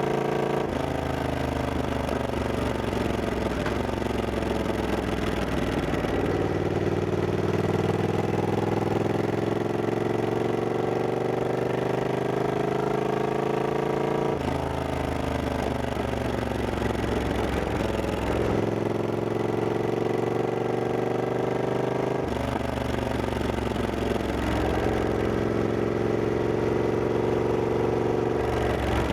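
Triumph Scrambler 1200X's 1200 cc parallel-twin engine running under way, its pitch rising slowly over long stretches and changing abruptly a few times as the rider shifts gear or rolls the throttle on and off.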